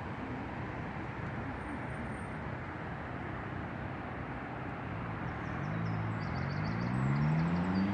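Steady outdoor road noise, then a motor vehicle's engine comes in about two-thirds through and rises in pitch as it speeds up, getting louder toward the end.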